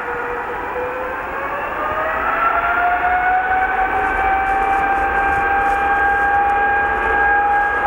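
Boeing 777 jet engines spooling up to takeoff thrust: a loud whine that rises in pitch over about two seconds, then holds steady over the engine noise as the thrust builds.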